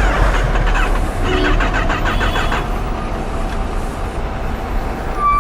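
Road traffic noise with a steady low rumble, and a brief high beep near the end.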